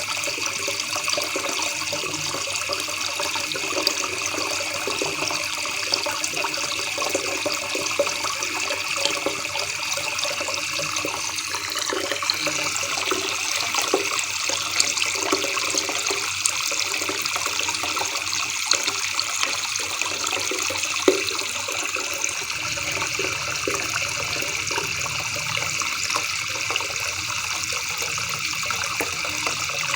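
River water babbling steadily, a constant rush of small splashes and trickles.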